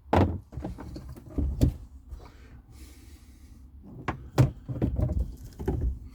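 Irregular clunks and knocks of things being handled and moved about, with a short rustling scrape about three seconds in.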